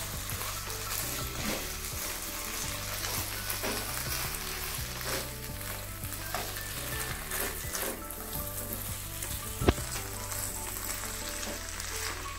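Parboiled chicken pieces sizzling in hot oil and red chilli masala in a nonstick kadai as they are stirred with a silicone spatula. The spatula scrapes and taps against the pan, with one sharp knock about ten seconds in.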